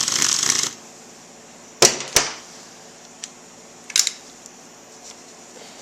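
Hand tools at work unbolting a motorcycle fork guard clamp: a brief noisy burst at the start, then sharp metal clicks, two close together about two seconds in and another about four seconds in.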